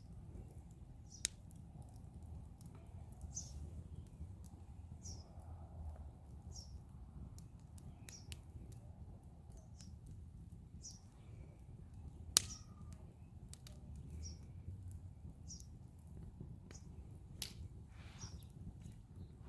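Bird feeder burning in a fire pit, crackling with scattered sharp pops, the loudest about twelve seconds in, over a low steady rumble. A bird chirps about every second and a half.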